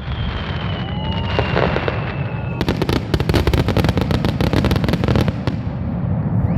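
Fireworks: a whistling shell gives a single falling whistle for about two and a half seconds. Then a rapid run of crackling reports follows for nearly three seconds and cuts off, over a steady low rumble.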